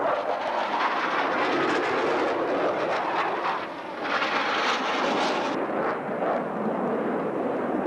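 Jet noise from a formation of F/A-18 Hornets flying overhead, a steady rushing roar that turns brighter and hissier from about four to five and a half seconds in.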